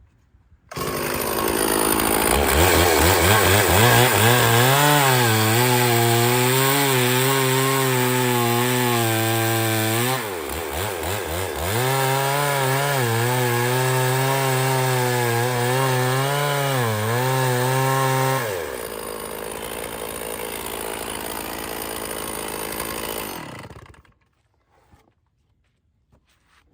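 Stihl two-stroke chainsaw at full throttle cutting into a log, its pitch wavering under load, making two cuts with a short dip in speed between them about ten seconds in. About eighteen seconds in it drops to a quieter, steady running, and it stops a few seconds before the end.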